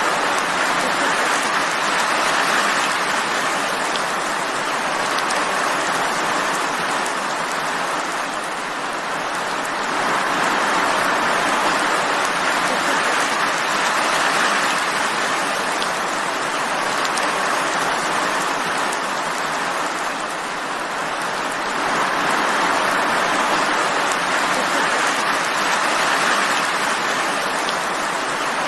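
Steady rain falling, a dense even hiss without separate drops or thunder, easing slightly twice and building back up.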